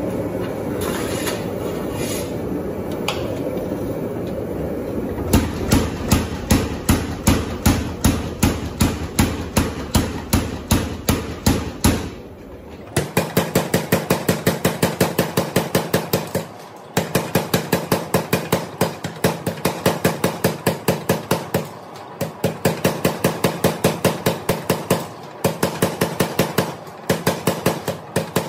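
Hand hammer striking a 1/2-inch square steel bar on an anvil while forging, in long runs of even blows about three or four a second with short pauses between runs. A steady rushing noise fills the first few seconds.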